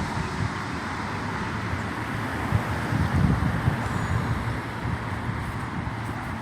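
Steady outdoor background noise of road traffic, with an irregular low rumble.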